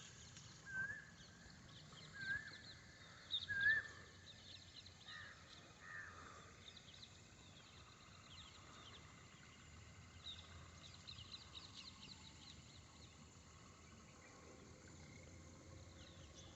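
Faint bird calls: a short rising-then-falling note repeated about every one and a half seconds for the first few seconds, then fainter high chirping over quiet outdoor background noise.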